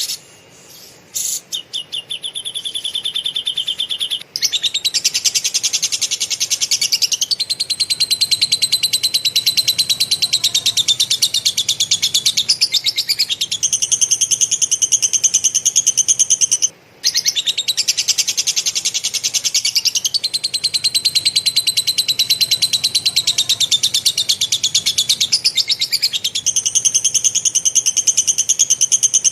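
Cucak jenggot (grey-cheeked bulbul) singing a very fast, dense chattering trill in the style of a lovebird's rough rapid-fire song. The long unbroken runs shift in pitch every few seconds and stop briefly twice.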